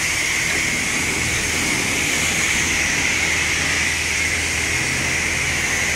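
Steady hiss of water spraying from a garden hose nozzle onto a car.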